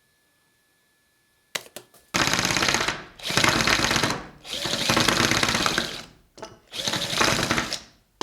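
Drill-powered miniature jackhammer running in four bursts of rapid hammering, each a second or two long with short pauses between, after a few clicks.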